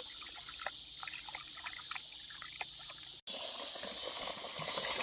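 Light water splashing and trickling in small scattered splashes and drips, over a steady high insect drone.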